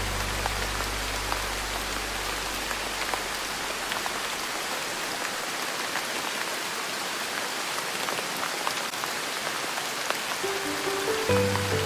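Steady rain, an even hiss dotted with individual drops. Soft, held low music notes fade away over the first few seconds and a gentle melody comes back in near the end.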